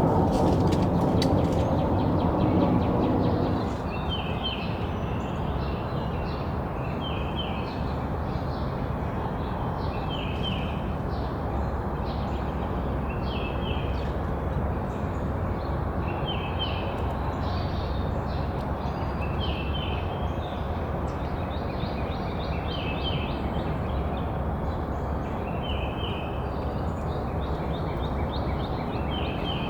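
A songbird singing the same short phrase over and over, about every two to three seconds, over a steady low background rumble. A louder low hum stops about three and a half seconds in.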